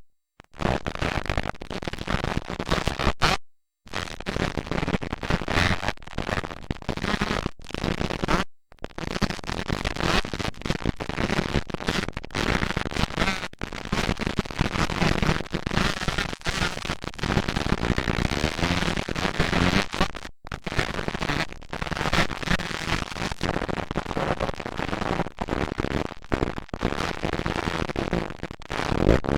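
Motocross dirt bike engines revving and crackling on the track, loud and continuous, cutting out completely a few times in the first nine seconds.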